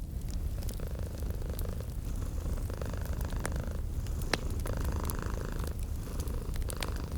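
Domestic cat purring steadily, mixed with fireplace logs crackling and popping, with one sharper pop about four seconds in.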